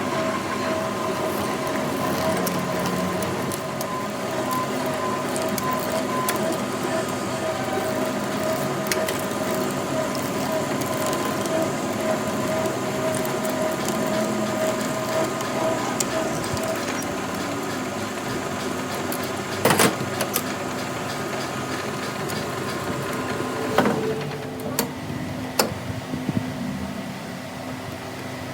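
A machine running steadily with a humming tone, fading out about two thirds in, followed by a few sharp metal knocks.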